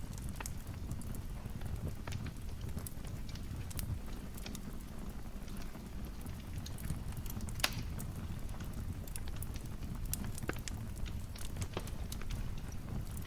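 Fireplace fire crackling: scattered pops and snaps over a low steady rumble, with one sharper pop a little past halfway.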